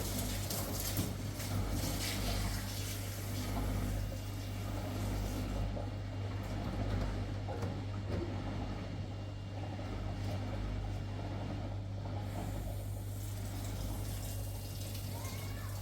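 Water running from a tap into a sink, a continuous splashing rush over a steady low hum.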